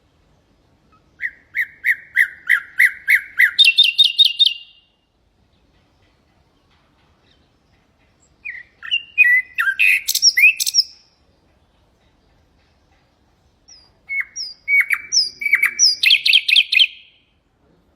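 Nightingale singing: three song phrases a few seconds apart, each a run of quick repeated notes that speeds up into a faster, higher trill.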